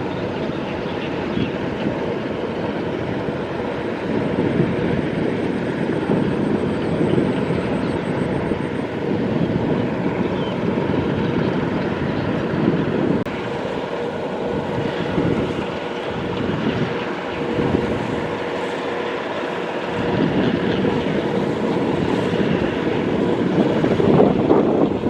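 Kubota DC-70 Plus rice combine harvester running steadily under load, a continuous diesel engine and machinery drone with a faint steady hum.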